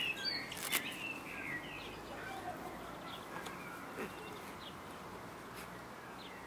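Small birds chirping in short gliding calls, mostly in the first half, over a faint outdoor background, with two sharp clicks near the start.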